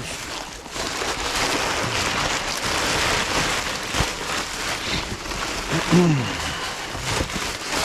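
Plastic trash bags and rubbish rustling and crinkling as someone rummages through a dumpster, with a single sharp knock about four seconds in.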